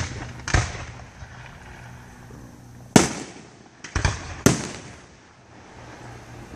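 Aerial fireworks bursting: five sharp bangs, each with a trailing echo. Two come near the start about half a second apart, then three follow in quick succession about three to four and a half seconds in.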